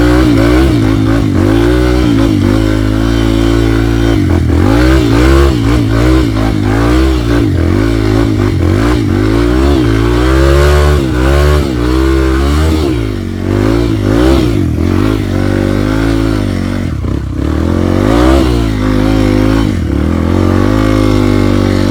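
Off-road motorcycle engine revving up and down over and over, the throttle opened and closed in quick uneven surges as the bike is ridden along a rough trail.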